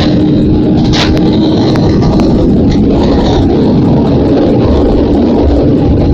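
TVS Apache RR 310's single-cylinder engine running hard at high speed, a loud, steady drone held at an even pitch.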